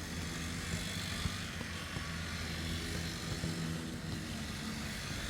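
Grass-cutting machine's small engine running steadily, with a hiss of cutting noise over it and a few short knocks.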